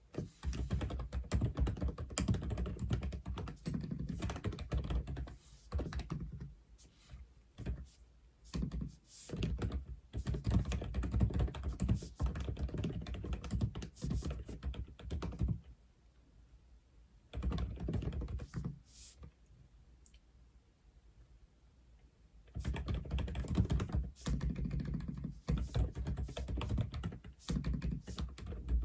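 Typing on an Aula F87 mechanical keyboard: fast runs of key clacks in bursts, with two longer pauses where only a few scattered keystrokes sound.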